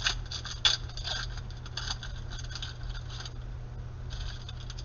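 Trading cards being flipped and slid against one another in the hands: a run of short clicks and scrapes, busiest in the first second or so, over a steady low hum.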